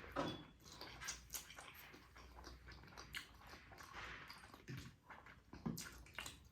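A mouthful of spicy ramen noodles being chewed, heard as soft, irregular wet mouth clicks and smacks.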